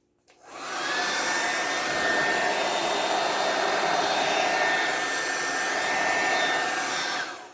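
Hair dryer running for about seven seconds: a steady blowing rush with a high motor whine. The whine rises as it spins up in the first second and falls away as it switches off near the end.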